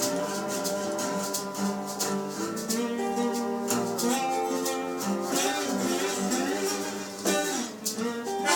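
A live band playing an instrumental passage: guitar with a shaker keeping time.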